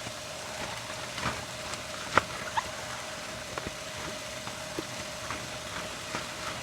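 Scattered light clicks and knocks of cooking utensils and containers being handled, the sharpest about two seconds in, over a steady hiss and a faint hum.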